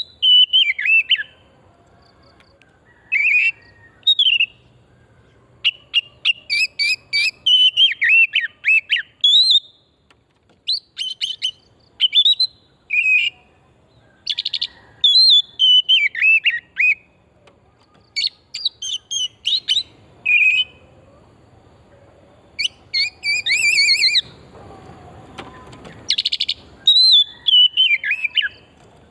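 Oriental magpie-robin (kacer) in full, non-stop song: loud bursts of varied whistled phrases and quick chattering trills, with short pauses between phrases.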